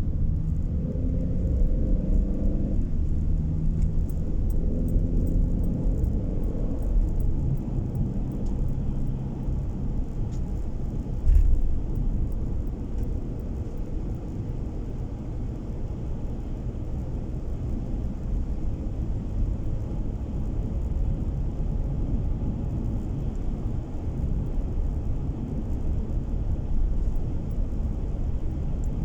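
Car engine and road noise heard from inside a moving car: a steady low rumble, with the engine note rising slightly over the first several seconds. A single thump comes about eleven seconds in.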